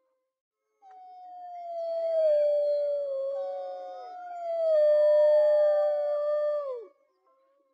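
Dogs howling together: long, overlapping howls held at a steady pitch, each sliding down in pitch as it ends. They start about a second in and stop shortly before the end.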